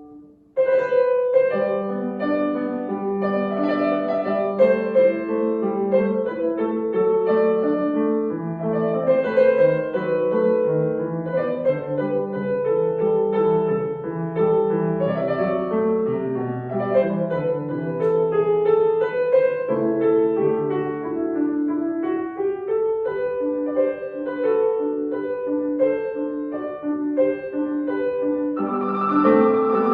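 Solo piano playing a classical piece. A fresh phrase begins about half a second in after a brief pause, and the playing grows fuller and brighter near the end.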